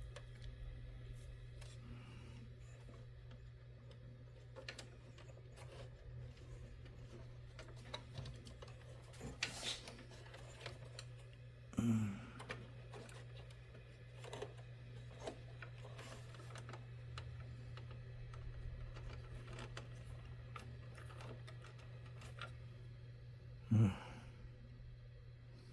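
Sparse, irregular clicks of typing on a keyboard over a steady low hum, with two short, louder low sounds about twelve seconds apart.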